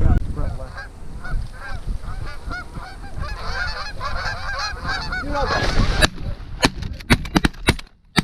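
A flock of geese honking, many calls overlapping in a dense chorus, with wind rumble on the microphone. About six seconds in, the honking stops and a quick run of sharp clicks and knocks follows.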